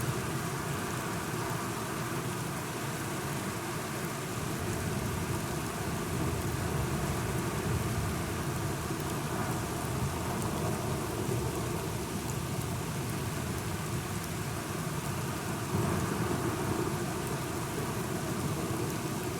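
Steady heavy rain with a low, continuous thunder rumble underneath, swelling slightly near the end.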